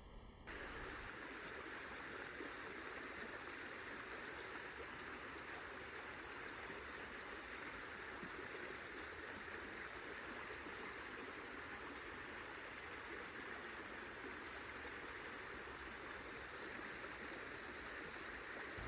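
Babbling brook: running water makes a steady, even rush. It starts abruptly about half a second in.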